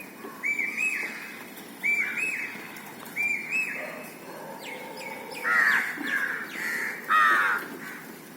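Birds calling: a short two-note whistled call repeated three times, then two loud harsh calls about five and a half and seven seconds in.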